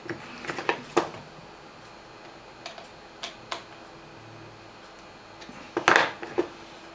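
Scattered sharp clicks and light knocks of small parts being handled during bench repair of a portable radio: a few near the start, some more in the middle, and the loudest couple near the end.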